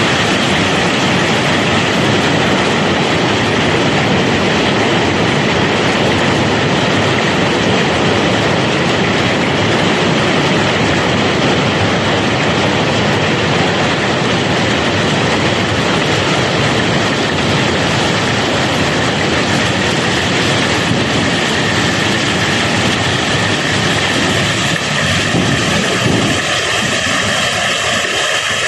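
Cobblestones pouring and clattering in a continuous dense rattle as they are unloaded, thinning slightly near the end.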